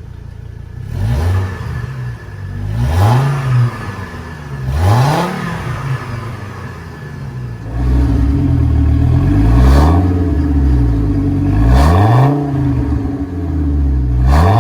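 Exhaust of a 2004 Chevy Colorado's inline five-cylinder engine idling and blipped in short free revs, six in all, about every two to three seconds. A little before halfway the idle becomes louder and deeper.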